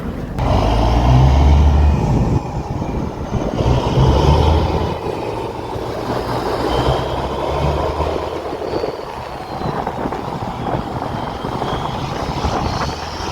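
Caterpillar diesel engine of a Peterbilt semi truck pulling under load. It is loudest in two surges in the first four seconds, then settles into steadier running.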